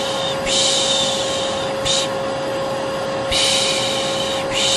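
Vacuum cleaner motor running with a steady hum, while a person shushes 'shhh' over it in long breaths, three times, as a calming white-noise sound for a baby.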